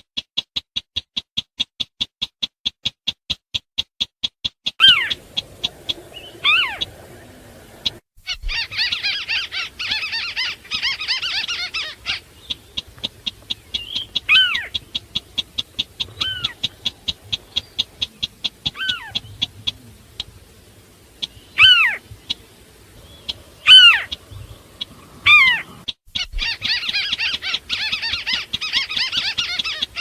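Bird-lure recording of wetland crakes, the sintar beker and the white-browed crake (tikusan alis putih), calling. It opens with a fast, even series of ticks, about six a second. Loud downward-slurred calls come every few seconds, and two spells of dense chattering come a few seconds in and again near the end.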